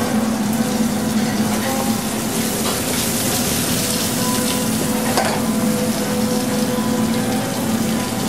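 Raspberry and pomegranate juice mixture heating in a pot on the stove for marmalade, a steady cooking hiss under a constant low hum.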